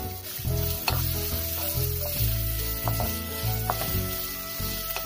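Chopped onion sizzling in hot olive oil in a nonstick kadai, stirred with a wooden spatula that knocks the pan a few times. Background music with a steady bass line plays under it.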